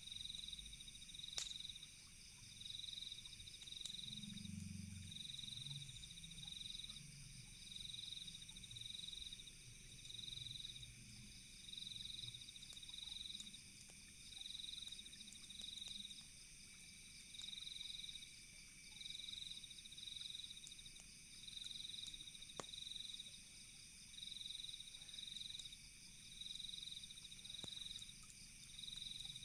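Faint night chorus of crickets: a high chirping trill that swells and fades about once a second over a steady higher insect hum. A few low frog croaks come about four seconds in, with occasional faint campfire crackles.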